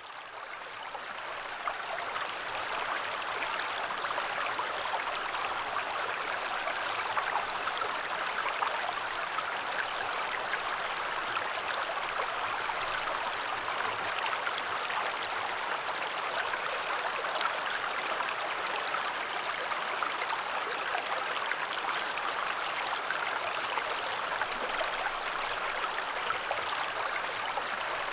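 River water flowing steadily, a continuous rushing that fades in over the first two seconds.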